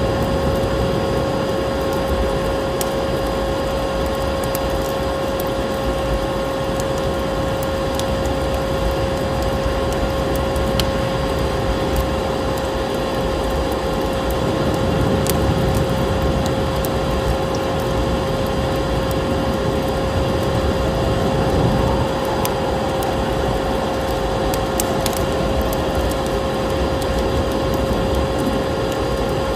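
Fireplace fire crackling with scattered sharp pops, over a constant whine from a running vacuum cleaner motor and a dense rushing noise of storm wind.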